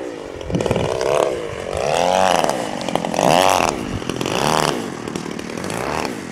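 Radio-controlled model airplane's motor and propeller running in flight, its pitch rising and falling several times as the throttle and the plane's distance change.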